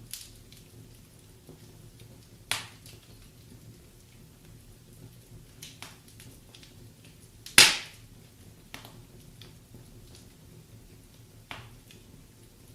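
Wood fire crackling in a fireplace: a quiet steady hiss broken by sharp pops, the two loudest about two and a half and seven and a half seconds in, with smaller snaps in between.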